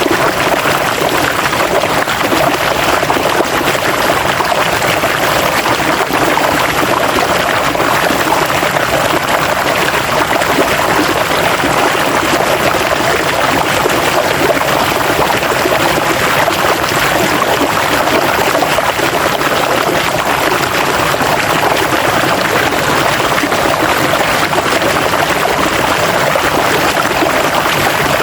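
River water flowing over rocks in a steady, unbroken rush, with a continuous babble.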